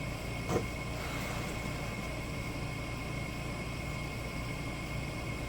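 A single light click of metal parts about half a second in, as the pieces of a rebuilt hydraulic drive motor are handled and lined up, over a steady background hum with a faint high whine.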